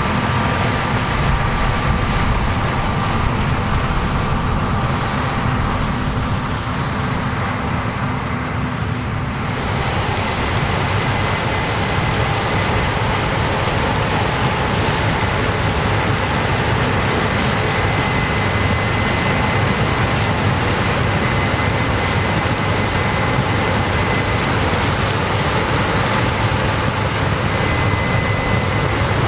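Combine harvester running in a corn field: a steady, loud drone of engine and machinery with a few constant whining tones. The sound shifts about nine and a half seconds in, as one low tone drops out and the noise evens out.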